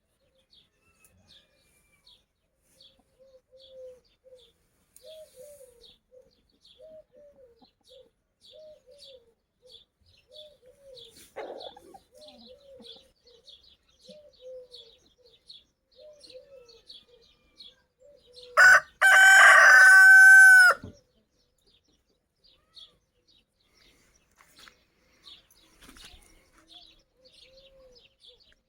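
A rooster crows once, loud, for about two seconds, past the middle. Before it a hen clucks softly in an even series of low calls, and small birds chirp faintly throughout.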